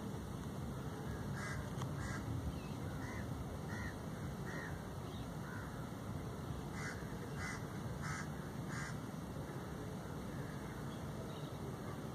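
A bird calling repeatedly in short calls over a steady low background rumble. The calls are scattered through the first half, then come as a run of four in quick succession a little past the middle.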